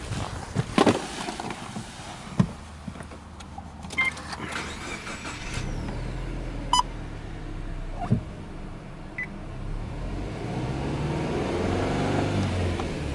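Clicks and short chimes as the Subaru Legacy 2.0GT's ignition is switched on, then its EJ20 turbocharged flat-four starts about five seconds in and runs, its speed rising near the end and easing again.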